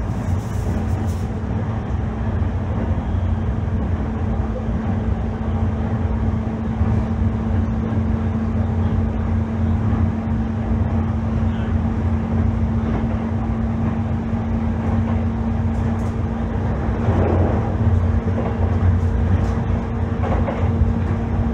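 E531 series electric multiple unit running along the line: a steady rumble of wheels on rail with a constant hum over it, and a few brief clicks.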